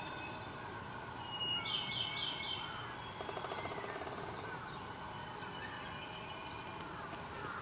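Wild birds singing and calling. About a second and a half in, one bird gives a quick phrase of four high notes, followed by a low rapid rattle lasting about a second and a half, with fainter high calls from other birds behind.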